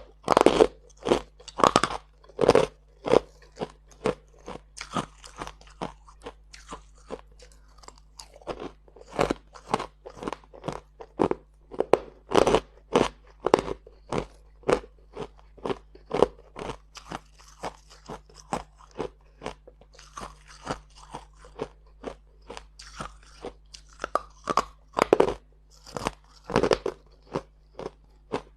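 Someone biting and chewing crunchy ice: a long run of sharp, crackling crunches, about two a second, some much louder than others.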